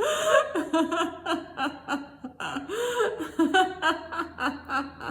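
A woman laughing on purpose in a laughter-yoga exercise, quick runs of short ha-ha pulses, with a fresh run starting about halfway through.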